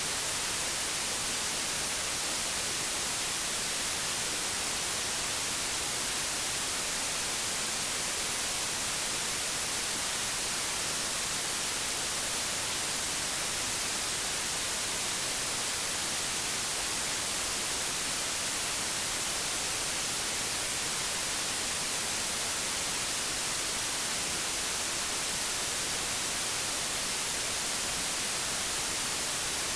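Analogue television static: a steady, even hiss weighted toward the high end, unchanging throughout.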